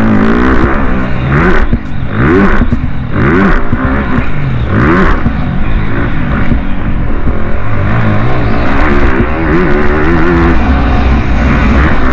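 Off-road motocross motorcycle engines revving hard, their pitch climbing and dropping over and over with throttle and gear changes.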